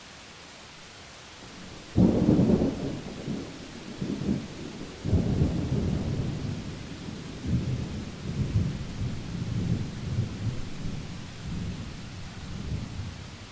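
Thunder over steady rain: a sharp clap about two seconds in, a second surge a few seconds later, then rolling rumbles that die away near the end.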